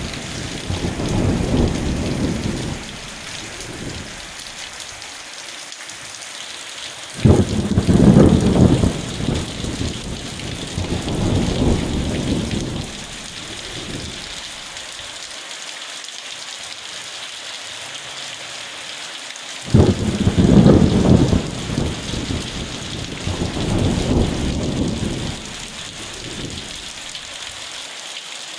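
Steady rain hissing, with thunder over it: a rumble fading away at the start, then sharp cracks of thunder about seven seconds in and again about twenty seconds in, each rolling on and dying away over several seconds.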